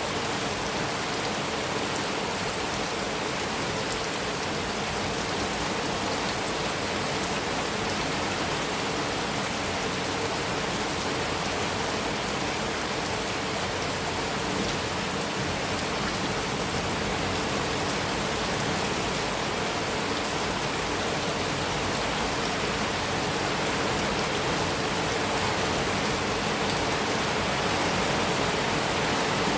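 Heavy rain falling steadily on a metal roof, a dense even hiss with drops ticking through it.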